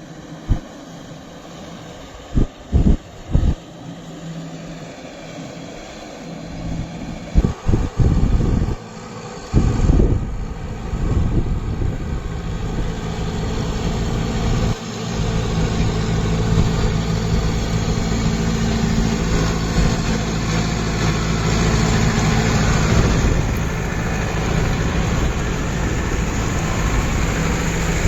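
Kubota MU 5502 tractor's four-cylinder diesel engine running steadily, growing louder about ten seconds in and again at about fifteen seconds. In the first ten seconds there are several low thumps of wind buffeting the microphone.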